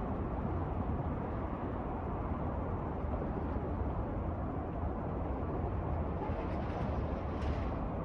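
Steady low rumble from a train, holding an even level, with a faint short hiss near the end.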